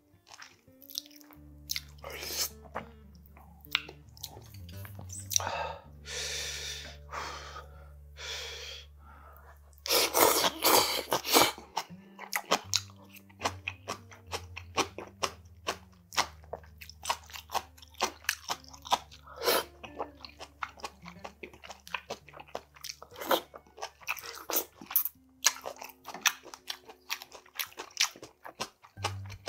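Close-up eating sounds of Korean steamed monkfish (agujjim) with bean sprouts: a few soft slurps, then a dense run of crunching about ten seconds in, followed by steady chewing and biting with many small wet clicks.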